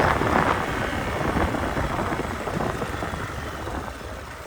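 Motorcycle running as it is ridden, a steady rumble that gradually fades.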